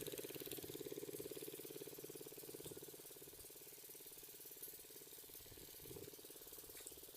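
A small single-cylinder diesel pump-set engine running with a rapid, even knocking beat. It fades gradually over the first few seconds, then runs on faintly and steadily.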